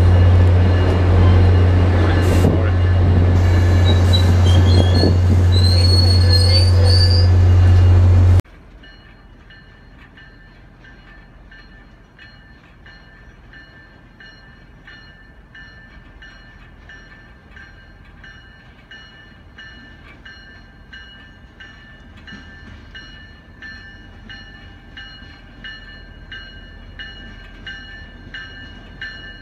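Commuter rail train moving at a station platform: a loud steady low drone with a few high squeals from the wheels. The sound cuts off suddenly to a much fainter scene, with a train approaching in the distance and a faint regular ticking that grows louder near the end.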